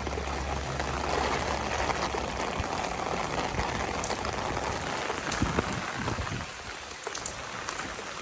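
Heavy rain falling and splashing, a steady hiss with scattered drop ticks; a low hum underneath stops about a second in.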